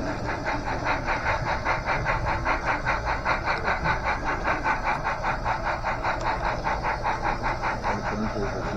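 Model steam locomotive (N&W 475) chuffing steadily, a fast even beat of about six hissy exhaust chuffs a second, as from a locomotive sound decoder while running.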